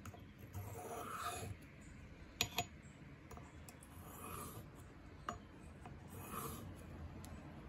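A Leatherman PST's small knife blade is drawn across a sharpening stone in slow rasping strokes, about one every two seconds. Two sharp clicks come close together near the middle.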